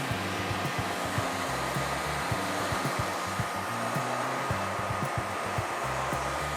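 Wood-processing machinery running with a steady, continuous rushing noise and a thin steady whine, over background music with a low bass line.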